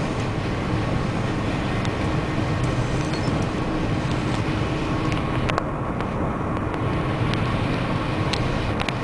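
TGV high-speed train running at speed, heard from inside the passenger car: a steady rumble and hiss, with a few faint clicks in the second half.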